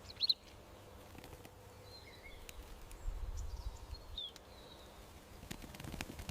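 Backyard birds giving a few short, high chirps, the loudest just after the start and others around two and four seconds in. A low rumble rises from about three seconds in to past four seconds, with faint clicks scattered through.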